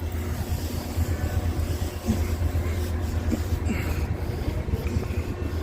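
Steady low rumble of distant vehicle engines, with no single event standing out.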